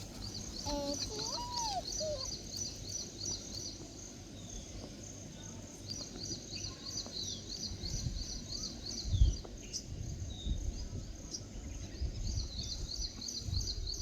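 Birds chirping outdoors: runs of rapid, evenly repeated high chirps that stop and start again, with a short lower curving call about a second in. A low rumble of wind or handling on the microphone runs underneath, with a sharp thump about nine seconds in.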